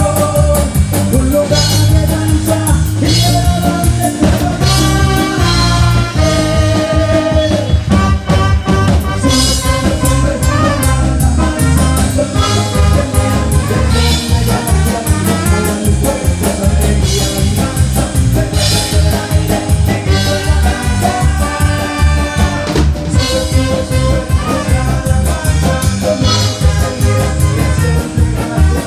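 A live band playing an upbeat praise song, loud and continuous, with a steady drum beat under held, changing melody notes.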